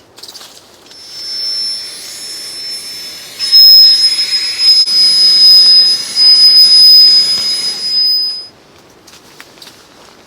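A small motor with a rush of air, giving a steady high-pitched whine. It starts about a second in, gets much louder partway through, and cuts off suddenly about two seconds before the end.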